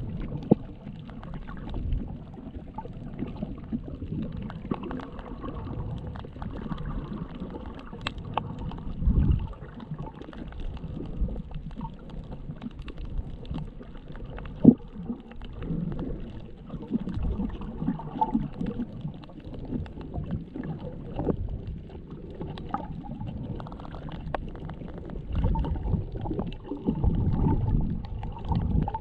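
Underwater sound picked up by a GoPro Hero7's bare microphone, submerged without a waterproof case: a muffled, low rumbling and sloshing of water that swells and fades, with many faint scattered clicks and a sharper knock about halfway through.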